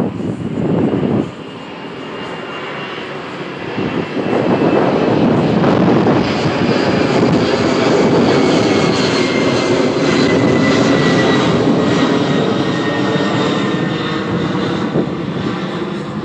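A large vehicle passing: loud, steady noise that builds from about four seconds in and holds, with a faint whine slowly falling in pitch.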